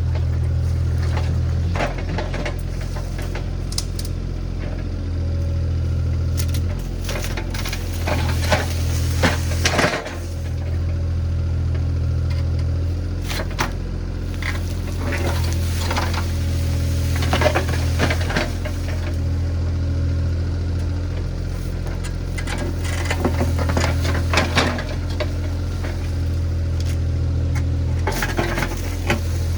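Diesel engine of a compact earthmoving machine running steadily, with frequent metallic clanks and rattles from the machine working.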